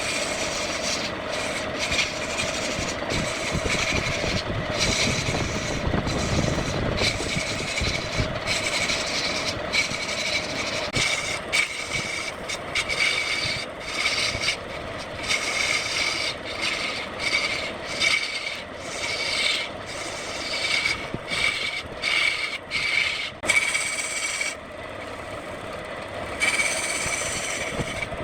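Wood lathe running, with a turning tool scraping against the spinning wood in short, repeated passes that break off and start again many times.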